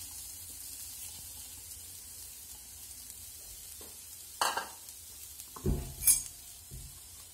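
Grated fresh coconut sizzling in hot ghee in a pan, the sizzle slowly quietening. A spoon stirs and knocks against the pan a few times in the second half, the sharpest knock about six seconds in.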